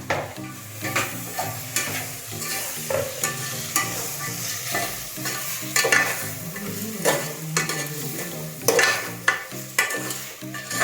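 A spoon stirring and scraping through vegetables frying in a pan of onion-tomato masala, with a steady sizzle. Sharp clinks of the spoon against the pan come every second or so.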